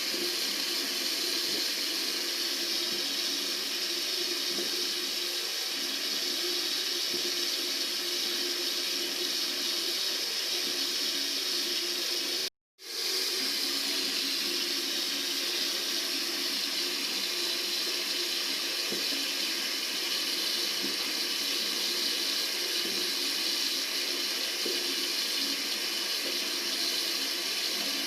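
Tap water running steadily into a sink, an even rushing noise. It cuts out for a split second about twelve seconds in, then carries on unchanged.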